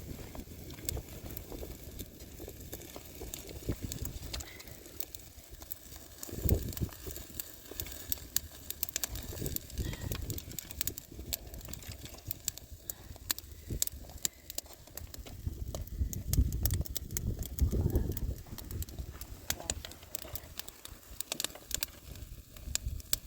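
Gusty low rumble with many small, sharp clicks scattered throughout.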